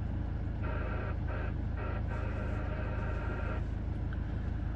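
Morse code identifier tones from an FM repeater heard through the radio's speaker: a steady beep keyed on and off in short and long elements, with a long tone near the middle, over a constant hiss and hum.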